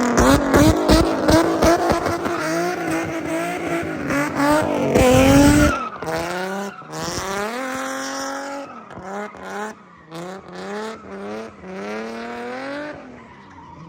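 Street-race cars accelerating hard, engines revving high and climbing in pitch through several gear shifts. The first six seconds are the loudest, then the engines fade as the cars pull away.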